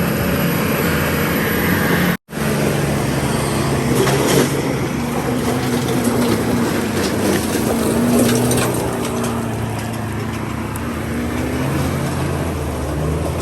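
Vehicle engines running hard as four-wheel-drives tow a heavily loaded lorry up a slippery hill; the sound cuts out for a moment about two seconds in.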